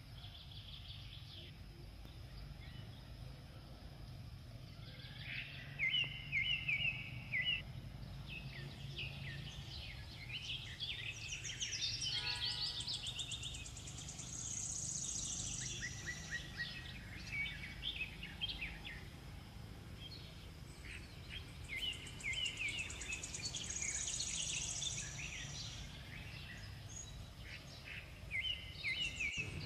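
Birds singing outdoors: a short chirping phrase repeats several times, mixed with quick high trills, over a steady low background hum.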